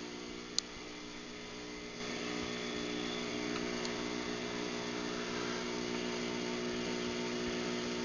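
Craftsman garage door opener running its closing cycle, its motor giving a steady hum. There is a sharp click about half a second in, and the hum grows a little louder about two seconds in.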